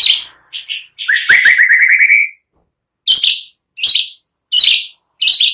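Songbirds calling: short, harsh chirps repeated about every 0.7 s, with a fast trill of about eight rising notes about a second in.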